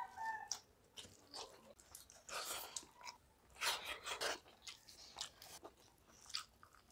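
Faint close-up chewing and biting of people eating chicken curry and rice by hand: irregular wet smacks and crunches, a few louder near the middle.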